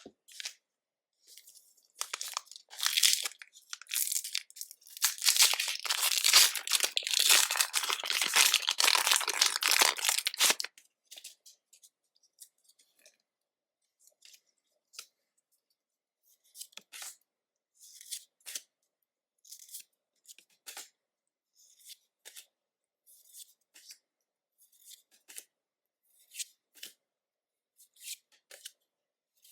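A foil Pokémon booster pack being torn open and its wrapper crinkled, dense and loud for about the first ten seconds. After that the cards are handled one at a time, with a short soft click or slide about once a second.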